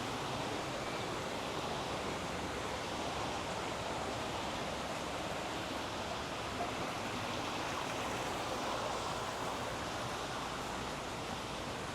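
Steady rushing of running water, an even hiss with no single event standing out.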